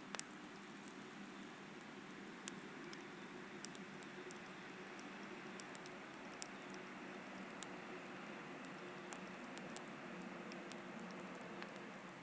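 Wood campfire crackling: sharp, irregular pops and snaps over a steady low hiss, the loudest pop just after the start.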